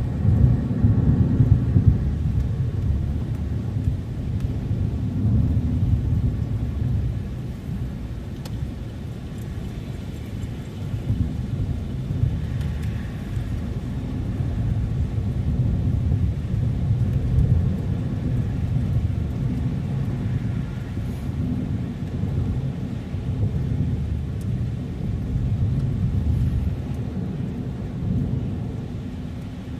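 Car driving on the road: a steady low rumble of road and engine noise that swells and eases every few seconds.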